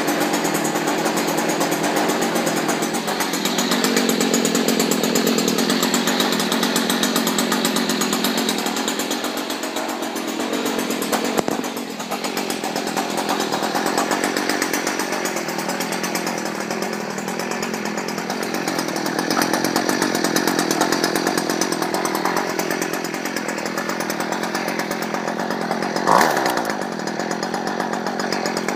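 Stihl KM56RC two-stroke kombi engine running a string-trimmer attachment, its speed rising and falling in slow swells with the throttle. A brief sharp sound stands out about 26 seconds in, with a smaller one around 11 seconds.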